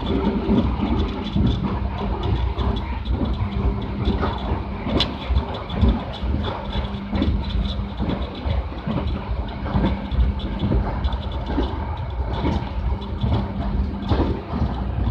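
Passenger train in motion: a steady low rumble and hum with frequent irregular knocks and clicks.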